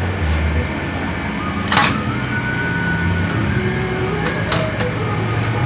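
An engine running steadily, its pitch stepping up and down a few times, with a short sharp hiss about two seconds in.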